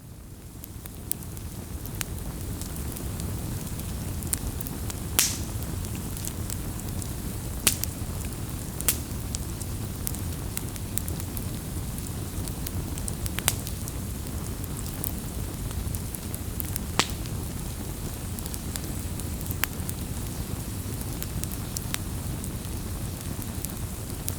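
Wood bonfire burning: a steady low rush of flames with sharp crackles and pops every few seconds, the loudest about five seconds in. It fades up at the start.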